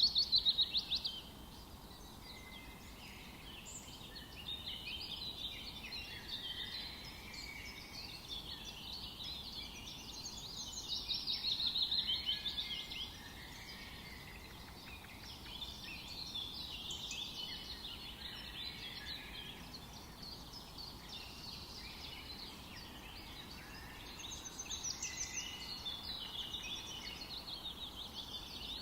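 A chorus of several songbirds singing and chirping over one another, with louder bouts of song about a second in, around the middle and near the end, over a faint steady background hiss.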